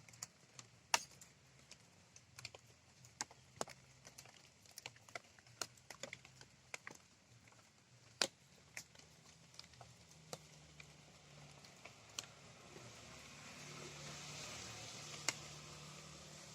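Scattered raindrops dripping and tapping irregularly, with a soft hiss of rain building up near the end.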